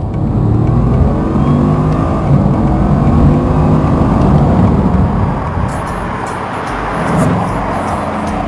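Bugatti Chiron's 8-litre quad-turbocharged 16-cylinder engine accelerating, whirring and whooshing as it ingests air. The engine note climbs for about five seconds, drops back, and rises briefly again near the end.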